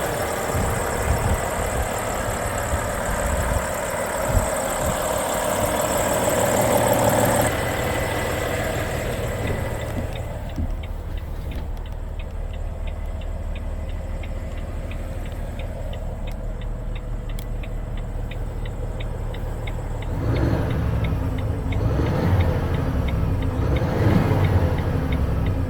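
Volvo FH 460 truck's 13-litre six-cylinder diesel engine running at idle. It is louder and hissier for the first several seconds, then settles quieter with a regular light ticking about three times a second, and the low rumble swells near the end.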